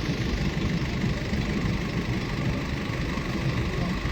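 Boeing 747-400's jet engines running steadily at taxi power, an even, unbroken engine noise.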